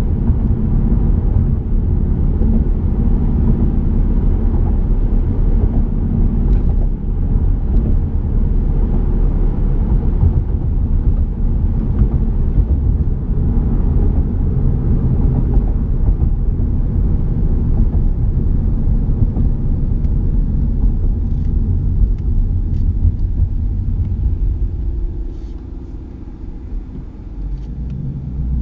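2018 Ford Mustang GT's V8 running while the car is driven, a steady low drone mixed with road rumble. It falls quieter for about three seconds near the end, then picks up again.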